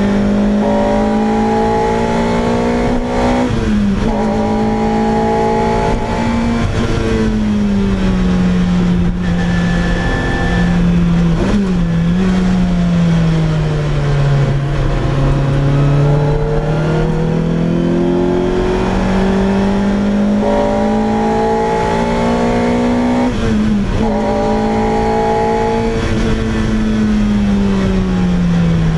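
Lotus Exige Cup's loud naturally aspirated four-cylinder engine and exhaust under way. The engine note climbs and sinks over several seconds as the car speeds up and slows, and its pitch dips sharply a few times at gear changes.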